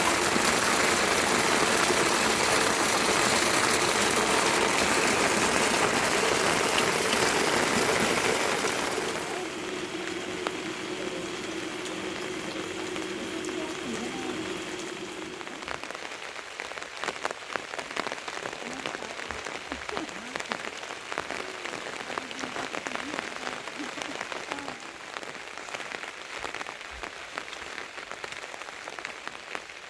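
Heavy rain falling with a loud, steady hiss. About nine seconds in it drops to a softer rain, and from about sixteen seconds many separate drops tick and drip.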